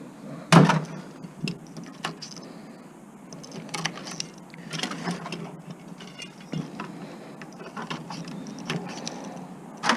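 Irregular clicks, knocks and rattles of metal and plastic parts being handled while an electronic unit is taken apart, with one sharp knock about half a second in.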